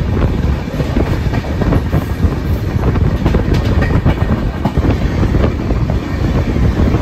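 Saraighat Express passenger coach running at speed on the track: a steady rumble with the wheels clicking irregularly over rail joints.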